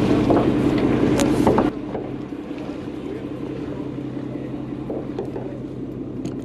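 Boat engine running steadily under loud rushing wind and water noise; about two seconds in the noise drops off sharply, leaving a quieter steady engine hum with a few light clicks.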